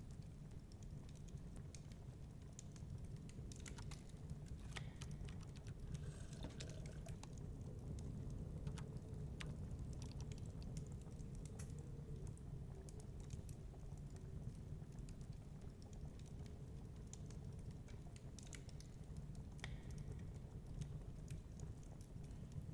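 Wood fire crackling with irregular sharp pops over a steady low rumble, with faint howling wind.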